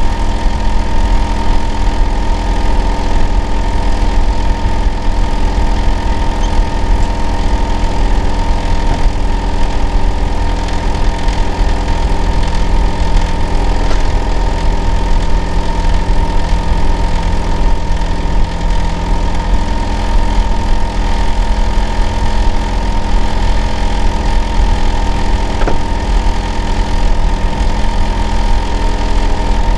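Hitachi air conditioner outdoor unit running: a loud, steady low hum with a steady whining tone above it, which the uploader hears as abnormal noise.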